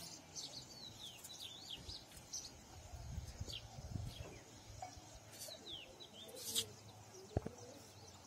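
Songbirds chirping, many short high calls that sweep down in pitch, over a low rumble of wind on the microphone, with a couple of sharp clicks late on.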